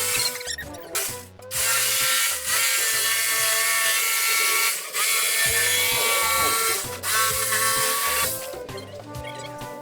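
Firo handheld power tool running in several bursts with short stops between them, cutting or boring into wood, with background music.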